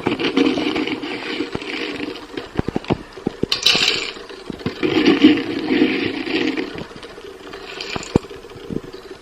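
Dry dog food being scooped and poured into dog bowls: several rushing, rattling pours with scattered clicks of the scoop and bowls between them.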